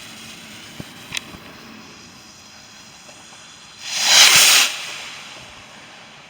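A firework going off: a faint sharp crack about a second in, then a loud hissing whoosh lasting under a second about four seconds in, fading out.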